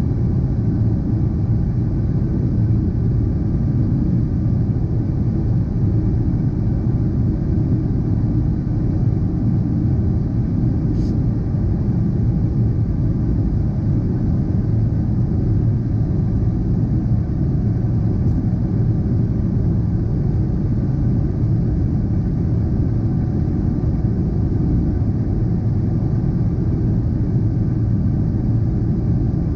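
Boeing 777-300ER jet noise: a steady, even rumble with faint steady whining tones above it, unchanging in level.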